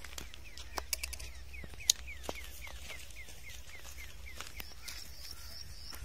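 A bird repeating a short falling chirp, about four times a second, over a low steady rumble. A few sharp clicks come in the first two seconds, the loudest about two seconds in.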